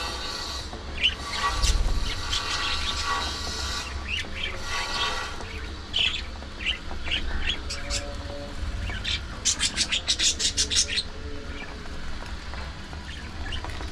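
A flock of budgerigars chattering with chirps and squawks, with a quick run of sharp chirps about ten seconds in, over a steady low rumble.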